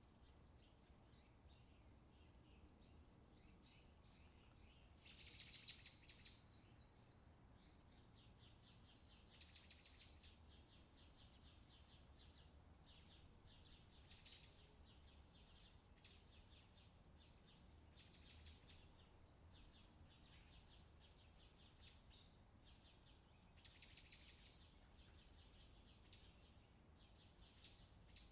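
Small birds giving short chirps and trills every few seconds, faint, over a low steady background rumble.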